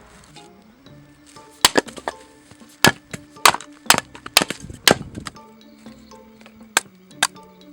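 A series of sharp wooden chopping strikes, irregular and about a dozen in all, thickest in the middle, over soft background music.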